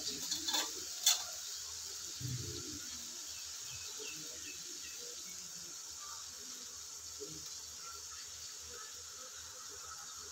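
Masala frying gently in a pan on a low gas flame: a faint, steady sizzle. A few light clicks come in the first second or so and a soft knock about two seconds in.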